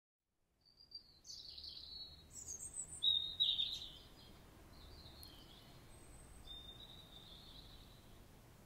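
Birds chirping over steady outdoor background noise, fading in from silence; the loudest run of calls comes about three seconds in, with fainter calls after.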